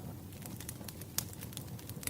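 Crackling wood fire: scattered sharp pops and snaps over a low, steady rumble, with one louder pop about a second in.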